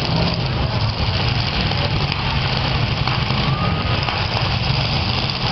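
Engines of several demolition derby cars running and revving together, a loud, steady low drone.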